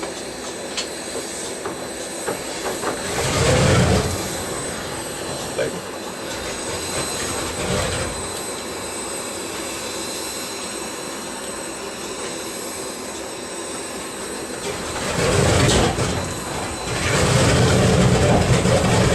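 Aircraft engines running steadily, with louder swells about 3 seconds in, around 15 seconds and again near the end.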